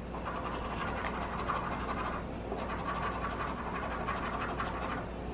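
Rapid, continuous scratching of a scratch-off lottery ticket, its coating being rubbed off in quick, steady strokes.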